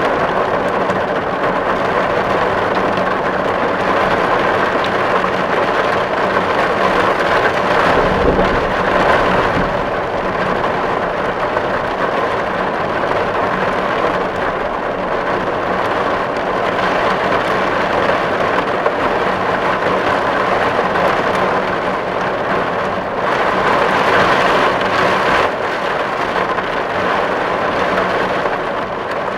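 Steady rain drumming on a metal tin roof, a dense patter of drops with slight swells in intensity about eight seconds in and again near the end.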